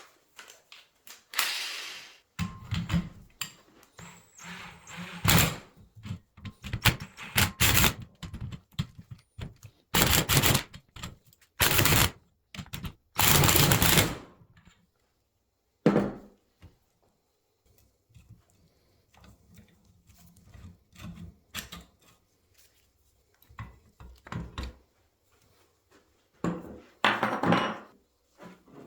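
Hand-tool work on a motorcycle rear shock absorber while its coil spring is taken off: metal knocks and clicks, and several short, loud rattling bursts, the loudest about ten to fourteen seconds in.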